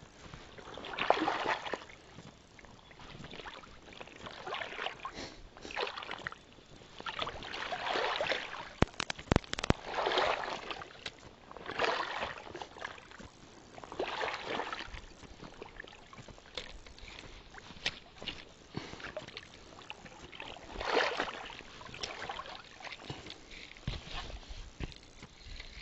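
Water splashing and sloshing around a kayak in irregular swells every couple of seconds, with a few sharp clicks about nine to ten seconds in.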